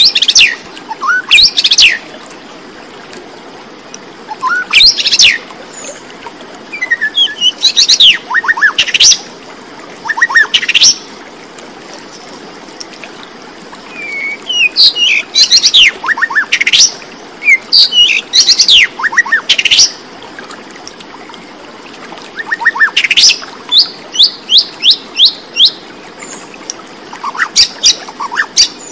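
Bird chirping in short bursts of quick, high notes, the bursts separated by pauses of a few seconds, over a steady background hiss.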